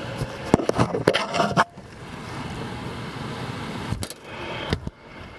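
Knocks and scraping from handling at an HVAC air handler, a cluster of them in the first two seconds and two single knocks later, over the steady noise of the running unit drawing air in around its filter.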